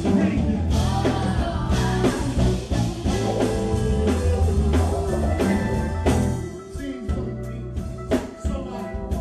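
Live band music: bass, drums and guitar with a singer's voice over them.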